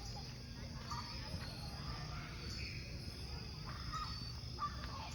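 Crickets chirping in short, evenly repeated trills over the low rumble of a wood campfire, with a few faint crackles and pops from the burning logs.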